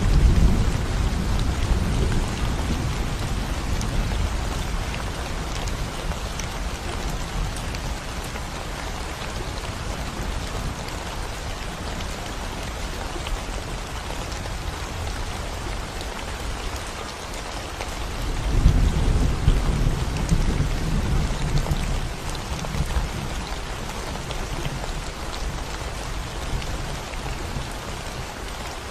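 Steady rain falling on a concrete road and the plants beside it, an even hiss throughout. A low rumble of thunder fades over the first few seconds, and another roll comes in about two-thirds of the way through and dies away after several seconds.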